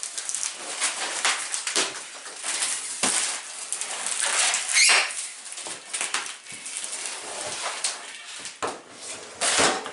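Packaging being handled during unboxing: irregular rustling, crinkling and scraping of plastic and cardboard. The loudest bursts come about halfway through and near the end.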